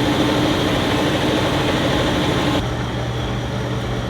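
A loud, steady mechanical whir that starts abruptly, thins out about two and a half seconds in, and stops near the end.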